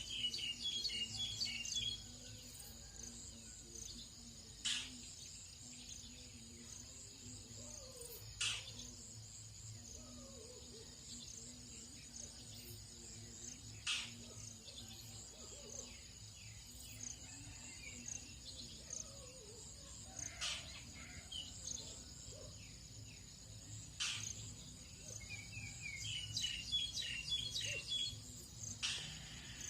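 Tropical dawn chorus: a steady high insect drone, with bursts of rapid bird chirping near the start and again near the end, and single sharp calls every few seconds.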